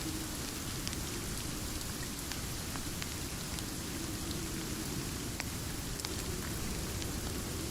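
Steady rain as a dense hiss with a heavy low rumble, with scattered sharp ticks of single drops or crackles through it.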